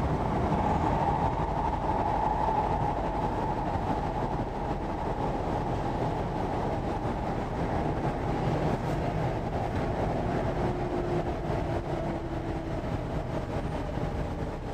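Cabin of a Korean-built MTR East Rail Line electric train running between stations: a steady rumble of wheels and running noise, with a whine in the first few seconds that fades away.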